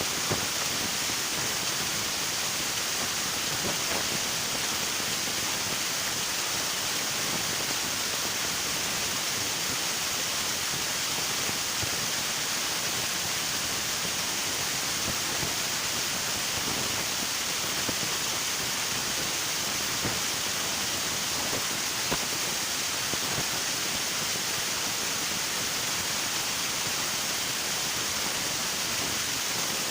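River water flowing: a steady, even rush with a bright hiss and no pauses.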